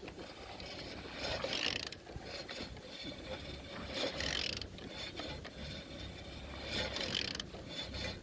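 Ratchet wrench clicking as a Renault F9Q 1.9 dCi diesel engine is turned over by hand, in about three strokes with gear and mechanism noise between them. The engine turns freely, which is good.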